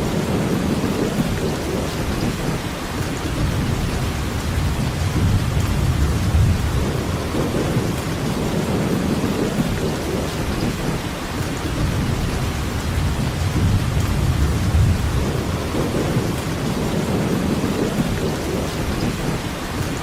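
Steady rainfall with a low rumble underneath that swells and fades every few seconds.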